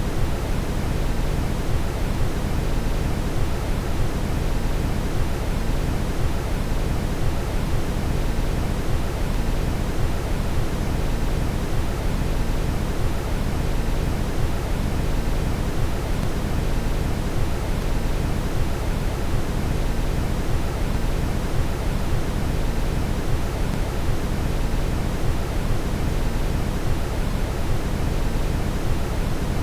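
Steady brown noise: an even, unchanging deep rushing hiss, heaviest in the bass.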